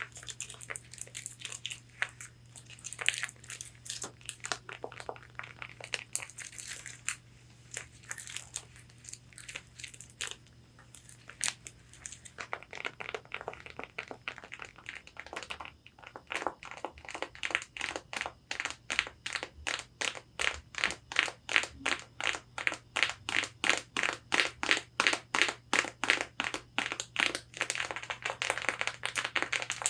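Long fingernails scratching and tapping on a corset bodice's fabric. Irregular scratches and clicks for the first part, then about halfway in a steady run of quick taps, about three a second.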